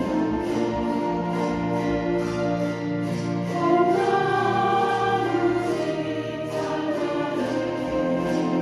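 Chromaharp ensemble playing a slow ballad in sustained, ringing chords, swelling louder about four seconds in.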